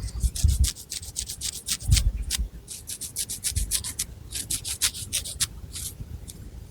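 Long fingernails scratching through thick hair on the scalp in quick short strokes, several a second, in two runs that thin out near the end. Soft low thumps sound underneath.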